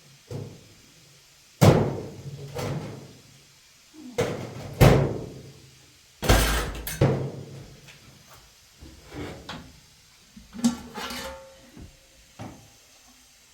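A series of sharp knocks and bangs a few seconds apart, with lighter knocks and clinks later on.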